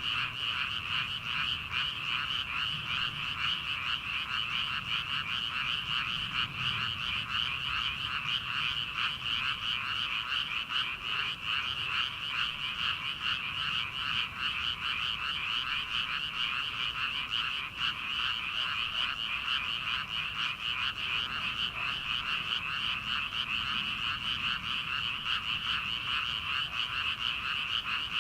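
Dense chorus of many frogs calling together in a rice paddy: a continuous, high-pitched, rapidly pulsing din at a steady level.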